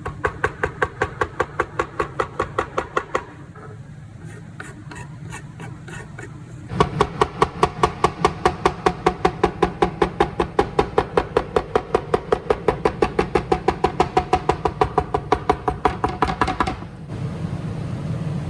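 Fast, even strokes of a kitchen utensil, about seven a second, each with a slight ringing tone. They stop about three seconds in, start again a few seconds later and run until about a second and a half before the end.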